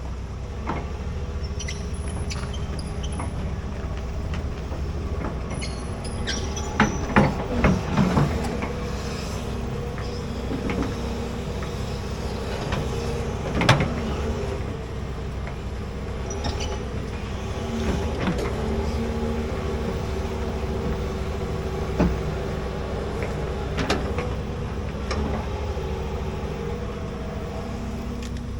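Large excavator's diesel engine running steadily while digging, broken by sharp clanks and knocks. The loudest clanks come as a cluster about seven seconds in, with another single one near the middle.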